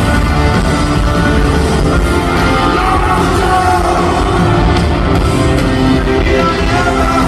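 Live rock band playing loud, with electric guitars, bass and drums under a sung lead vocal, heard from among a stadium crowd.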